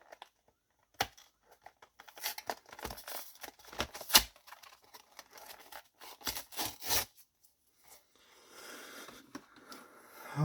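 Trading card packaging being torn open and handled: the wrapper tears and crinkles with sharp clicks in uneven bursts, then gives way to a softer, steady rustle near the end.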